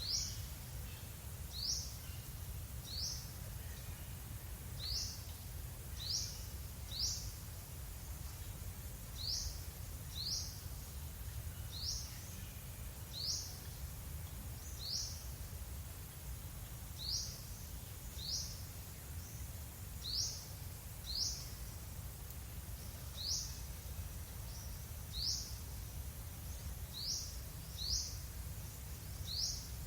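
A single bird repeating one short, high-pitched call note about once a second, at slightly uneven spacing, over a steady low rumble.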